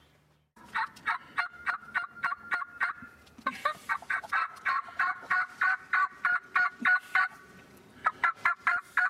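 Turkey yelping: three long runs of sharp, evenly spaced notes, about four a second, with short pauses between the runs.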